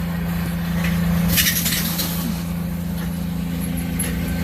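Truck engine idling steadily, with a brief hiss about a second and a half in.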